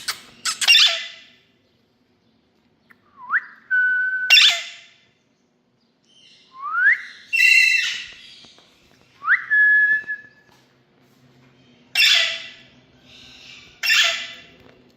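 Indian ringneck parakeet calling: harsh squawks about five times, with three whistles between them that swoop upward and then hold a steady note.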